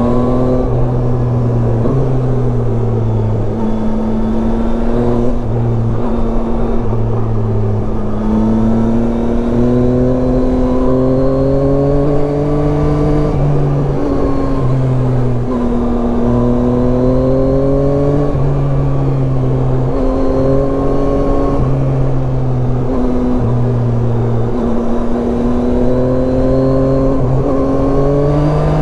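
Yamaha Tracer 9 motorcycle's 890 cc inline three-cylinder engine under way, its pitch climbing under throttle and dropping back again and again, as on a winding road.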